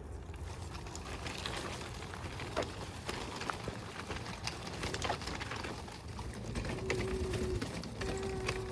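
Footsteps on a trail with a steady low wind rumble on the microphone and scattered light clicks; near the end come three short, steady tones of one pitch, each about half a second long.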